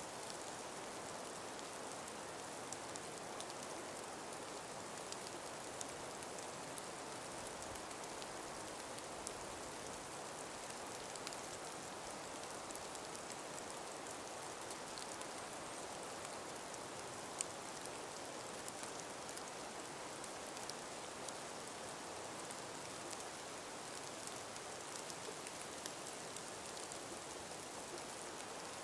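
Calm breeze in an ice- and snow-laden forest: a steady soft hiss, with many small, sharp ticks and patters scattered through it, one a little louder partway through.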